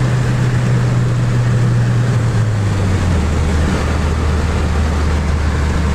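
Car engine running under steady road and wind noise inside a moving car. Its low note drops in two steps, about two and a half and three seconds in, then holds lower.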